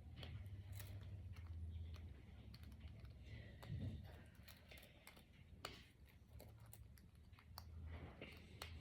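Faint, irregular clicks of small plastic brain flake discs being handled and pushed together into a chain.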